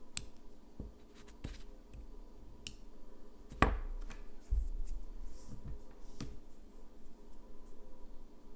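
Close-up handling sounds of hands working with manicure items: a scattered series of light clicks and taps, one louder knock about halfway through, and faint brief scratching or brushing soon after.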